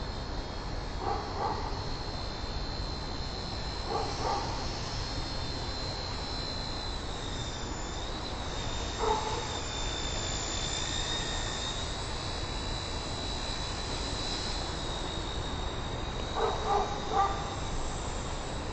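XK K100 micro RC helicopter's electric motor and rotor giving a steady high whine that wavers slightly in pitch as it flies, over low rumble of wind on the microphone. A few short pitched calls break in, a pair near the start, one mid-way and a quick cluster near the end.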